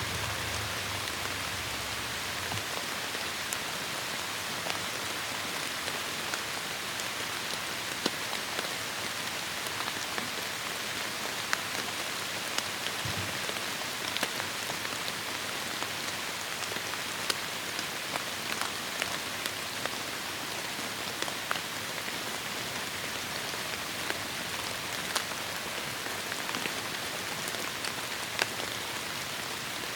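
Heavy rain falling steadily on forest foliage, a dense even hiss with scattered sharper drop hits, and a brief low rumble near the start and again about halfway.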